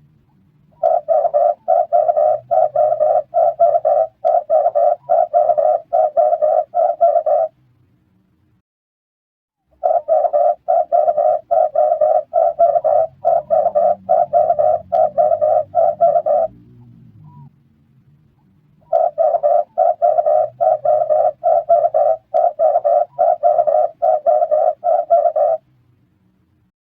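Red collared dove cooing: three bouts of rapidly repeated rough coos, two or three notes a second. Each bout lasts about six and a half seconds, with pauses of about two seconds between them.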